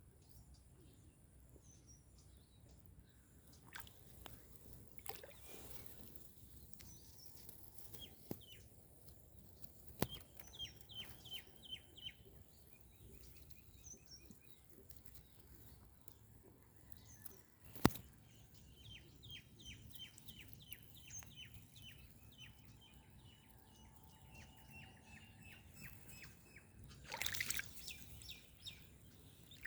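Small birds calling, with two rapid runs of short, evenly repeated chirps, one about ten seconds in and a longer one from about nineteen to twenty-six seconds. Two sharp clicks and a short burst of noise near the end stand out over the quiet outdoor background.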